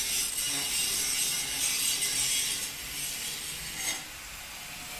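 Three-jaw lathe chuck being turned with its key, its scroll driving the three jaws in toward the centre with a steady metallic scraping that eases off after about four seconds.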